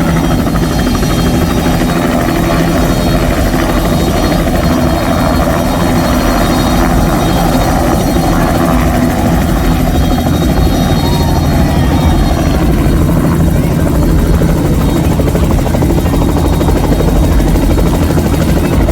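Helicopter running close by, a loud steady rotor chop with engine noise.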